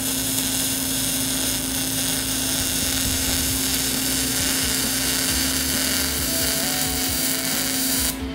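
MIG welding arc running with a steady hiss while a second pass is laid into the beveled joint of a multipass auger-shaft weld; the arc cuts off suddenly near the end.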